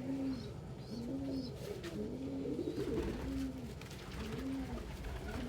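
Domestic pigeon cooing: a steady run of short, low, arched coos, about one a second.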